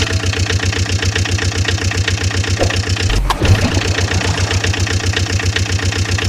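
Vehicle engine sound effect idling with an even, rapid chugging rhythm. A short thump with a noisy burst comes about three seconds in.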